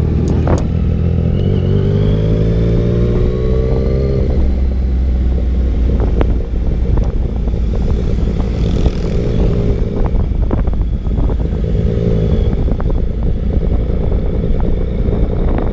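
Motorcycle engine running on the move, rising in pitch as it accelerates over the first few seconds, then easing off, with smaller rises later, over a steady low rumble and rushing wind noise.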